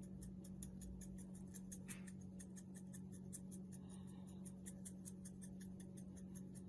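Dried parsley shaken from a spice container onto potatoes: a fast, even run of light taps, about seven a second, over a low steady hum.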